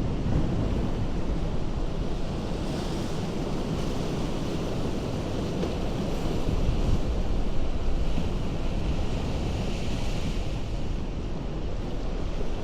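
Ocean surf breaking on a rocky shore: a continuous low rush of water, with the hiss of the wash swelling twice, a few seconds in and again in the last third.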